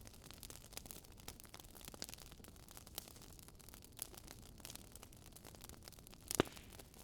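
Faint crackling of a wood fire: irregular small pops and ticks over a low hiss, with one sharper snap about six seconds in.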